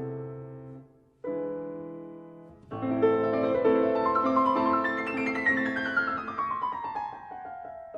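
Piano music: a chord fades out, a new chord is struck about a second in and dies away, then from about three seconds in a busier passage with a run of notes falling in pitch.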